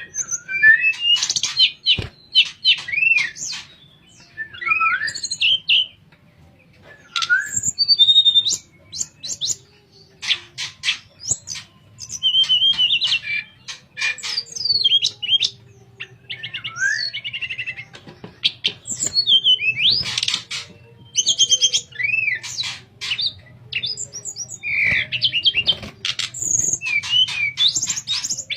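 A tledekan songbird singing a varied song of fluting, gliding whistles mixed with quick runs of sharp chirps. It sings in bursts of a second or two with short pauses between.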